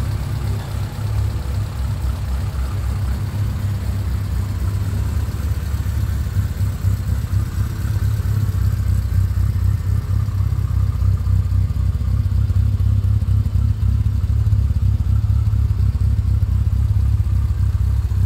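1968 Morris Mini Cooper S's A-series four-cylinder engine idling steadily, warmed up with the choke fully in. It grows gradually louder.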